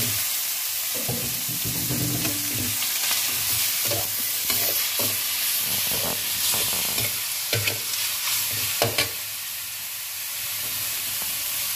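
Raw chicken pieces sizzling in hot oil in a metal kadai, with a slotted metal spatula scraping and knocking against the pan as they are stirred. There are a few sharper clinks of the spatula about two-thirds of the way in.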